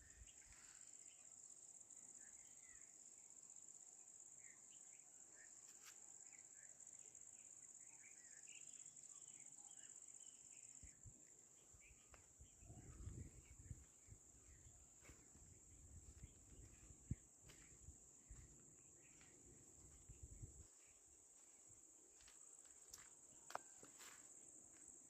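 Crickets trilling in one steady high-pitched drone, with faint short bird chirps mostly in the first half. A low rumble, likely wind on the microphone, comes in about halfway and drops away, and a few sharp clicks stand out.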